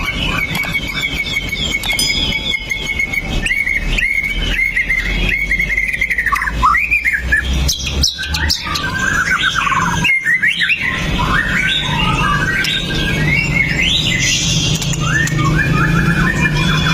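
White-rumped shama singing: a fast run of varied whistled and chattering phrases with sharp, sliding notes, over a steady low background hum.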